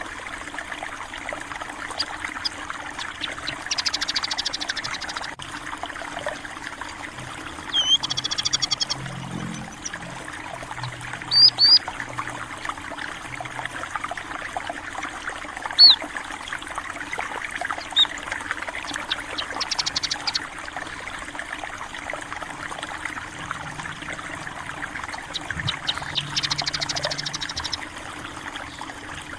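Stream water trickling steadily, with small birds calling high over it: a few short rapid trills and several single chirps.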